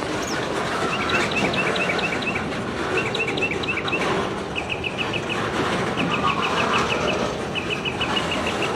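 A freight train rolling past with a steady rush of wheel and rail noise. Over it a bird sings short, rapid trills of chirping notes, repeated about once a second.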